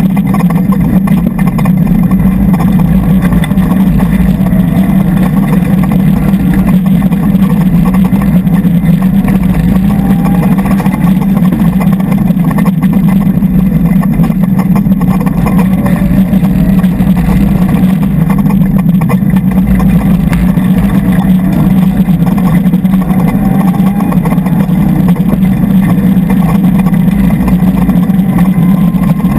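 Mitsubishi Lancer Evolution X rally car's turbocharged four-cylinder engine running hard, heard from inside the cabin. It makes a loud, steady drone with the revs climbing again and again as it pulls along the stage.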